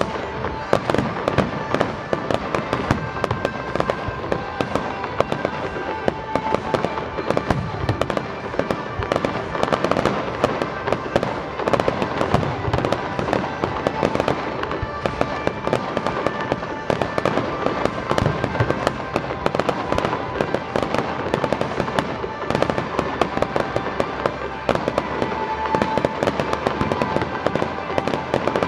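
Fireworks display: a dense, rapid stream of pops, bangs and crackles from aerial shells and ground fountains going off in quick succession.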